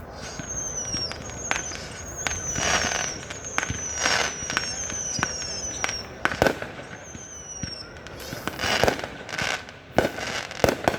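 Fireworks going off: a run of high whistles, each falling a little in pitch, over crackling, with sharp bangs, the loudest about six seconds in and two more near the end.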